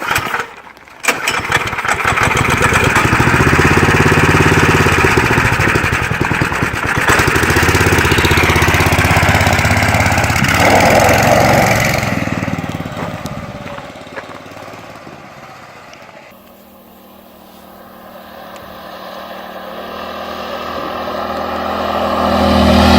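Homemade dirt bike's engine running hard as the bike rides off down the road, fading into the distance about twelve seconds in, then growing louder again as it comes back.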